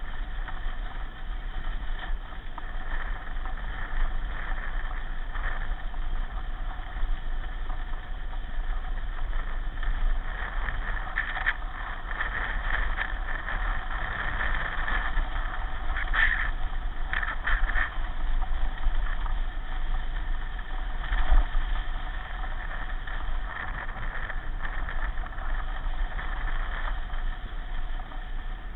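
Pedal car running along the track: steady rolling and drivetrain noise over a constant low hum, with scattered light knocks and one louder knock about 21 seconds in.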